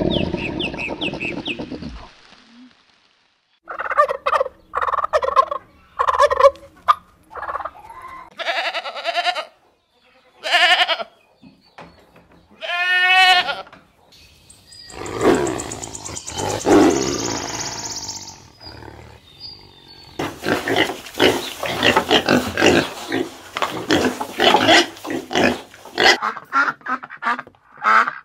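A string of different animal calls, one after another with short pauses: bleat-like cries, a quavering call, and a long run of rapid, harsh repeated calls near the end.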